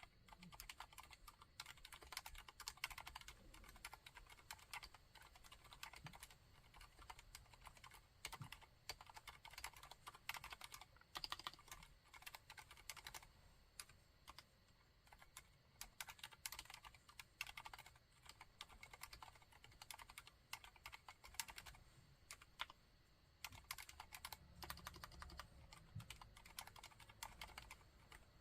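Typing on a Mistel MD600 Alpha split keyboard with Cherry MX Silent Red linear switches: a quiet, continuous stream of damped keystrokes with a couple of brief pauses.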